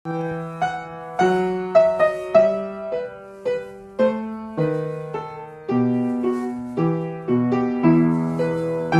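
Solo piano playing a steady accompaniment of struck chords with a bass line, about two chords a second, each ringing and fading before the next.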